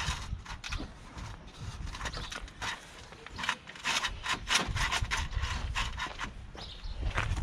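Irregular scraping, rubbing and clicking of plastic as the car's front bumper cover is pulled and worked against its fixings; it is still held by the wheel arch liner. The scrapes come thickest around the middle.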